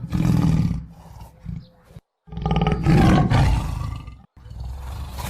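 Big cat roaring in short, rough, low calls, spliced as separate clips with abrupt cuts to silence about two seconds in and again near the end.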